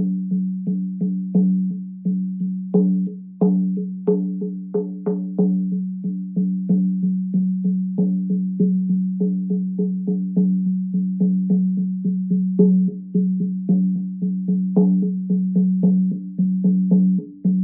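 Shaman frame drum, the "Veter" model, beaten in a steady rhythm of about three strokes a second. Each stroke rings on in a low hum, with some strokes struck harder than the rest.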